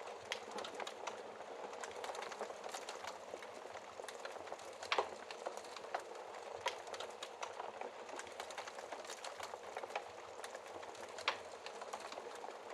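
Wood fire crackling behind a glass fireplace door: a steady hiss with many small clicks and a few sharper pops, the loudest about five seconds in and again near the end.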